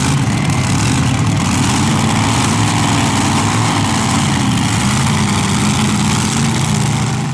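Pulling tractor's engine running loud and steady, with a deep even drone.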